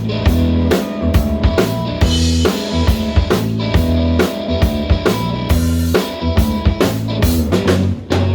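Rock band playing an instrumental passage: a drum kit with bass drum and snare keeping a steady beat over a bass line, with no singing.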